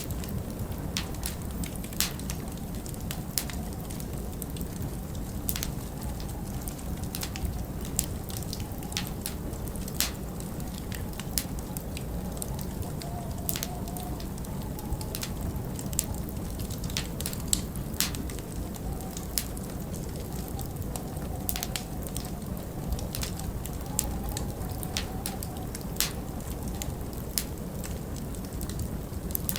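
Wood fire crackling, with irregular sharp pops a second or so apart, over a steady low rumble of storm wind.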